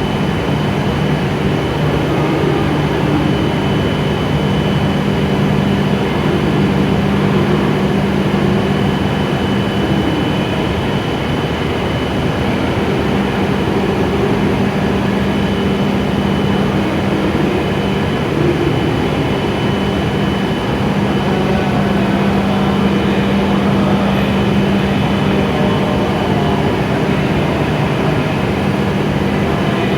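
E7 series Shinkansen train standing at the platform, its onboard equipment humming steadily: two low tones under a constant rush of noise, with a faint high whine.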